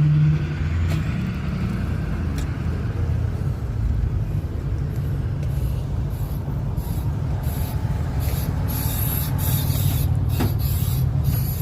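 Steady low rumble of a motor vehicle's engine and road noise, with a couple of faint clicks.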